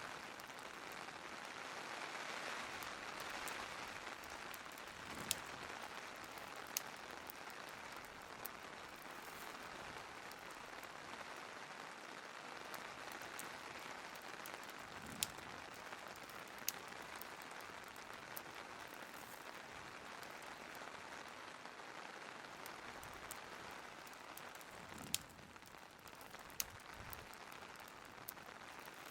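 Steady hiss of rain with a fireplace crackling, a few sharp pops standing out over the rain.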